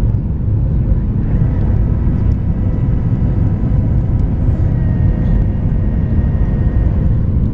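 Jet aircraft engine noise: a steady low roar with a thin high whine that comes in about a second in and fades a few seconds later.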